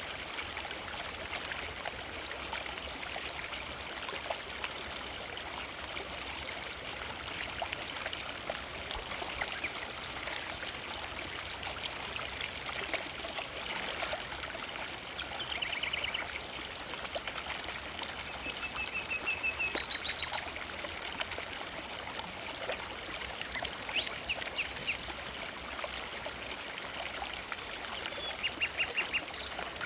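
A forest river flowing steadily over stones, with short bursts of bird chirps above the water several times.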